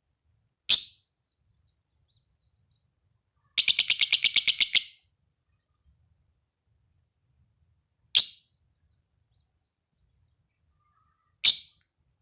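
Fischer's lovebird giving sharp, high chirps: a single chirp, then a quick run of about a dozen chirps, then two more single chirps spaced a few seconds apart.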